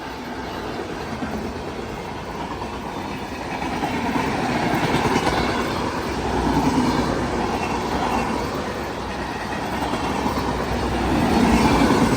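Passenger train of LHB coaches hauled by a WAG-7 electric locomotive rolling past: a steady rumble of wheels on rail with clickety-clack, swelling and easing every couple of seconds.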